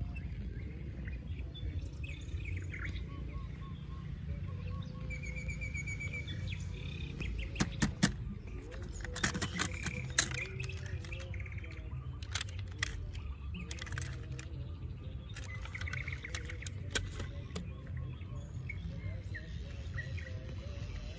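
Birds chirping now and then over a low steady rumble, with a cluster of sharp clicks and knocks about eight to ten seconds in.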